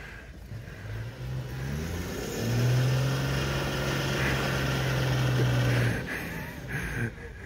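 Toyota Land Cruiser safari vehicle's engine revving hard as it tries to pull out of the mud it is stuck in. The revs climb over a second or two, hold high and steady for about three seconds, then drop back near the end.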